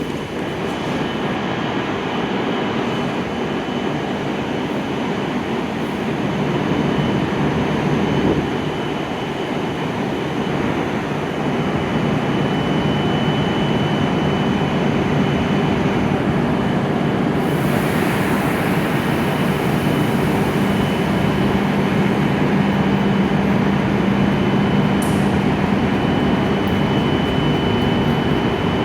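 E7-series Shinkansen trainset at the platform: a steady, loud hum with a high whine that strengthens at times and grows slowly louder.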